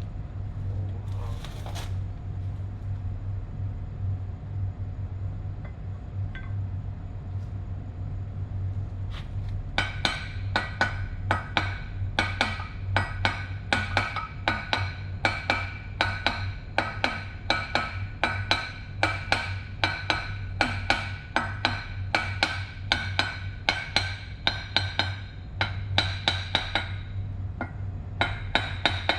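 A hammer tapping on steel: a long run of quick ringing strikes, about two or three a second, starting about ten seconds in and pausing briefly near the end, over a steady low hum.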